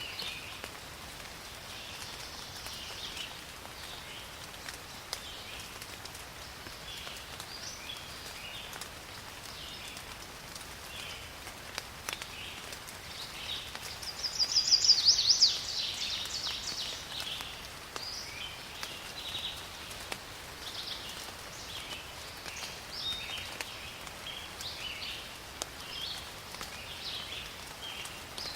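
Steady rain in a forest, with many small birds chirping throughout. About halfway through, one loud, rapid bird call rises above everything else for a second or so.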